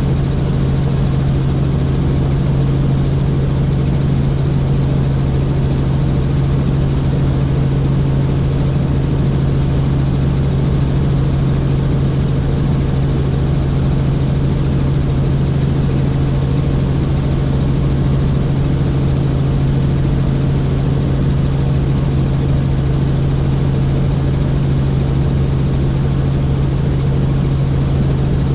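Helicopter engine and rotor noise in flight: a loud, steady drone with a strong low hum that does not change.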